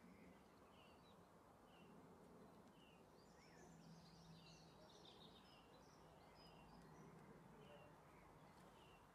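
Faint chirping of small birds: short high calls every second or so, with a busier flurry of chirps about four seconds in.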